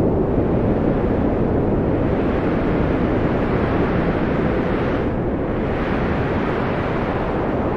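Wind blowing steadily, a deep rushing noise; its higher hiss fades briefly about five seconds in, then swells back.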